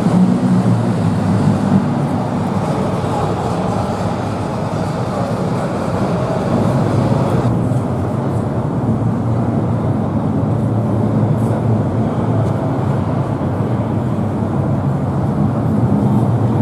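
Vehicle engine running with a steady low rumble. The sound changes abruptly about seven and a half seconds in.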